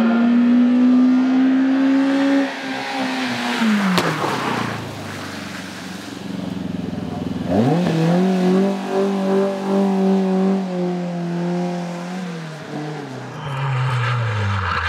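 Hillclimb racing car engines at full throttle. One engine note climbs and then drops away over the first few seconds; about halfway another engine revs up sharply, holds high and falls away near the end.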